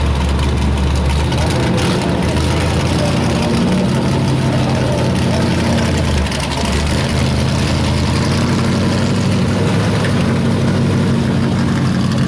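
Pulling truck's engine running loud and steady, its pitch shifting a few times.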